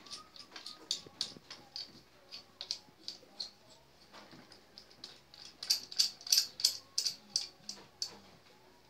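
A series of irregular sharp clicks and knocks from a pop filter's clamp being fitted and screwed onto a stand. The clicks come faster and louder past the middle, then stop shortly before the end.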